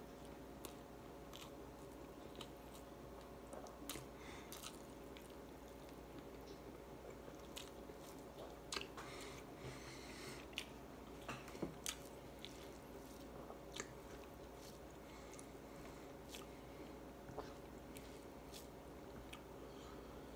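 A person eating rice, fish and chicken by hand: quiet chewing with wet mouth smacks and scattered clicks, coming thickest about halfway through, over a faint steady hum.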